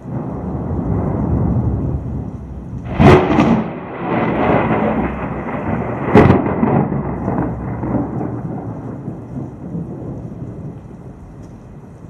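Thunder: a low rumble swells at once, broken by two sharp cracks about three and six seconds in, then rolls away and fades.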